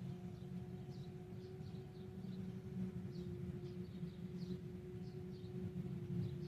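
Steady machinery hum with a constant drone, with small birds chirping repeatedly over it.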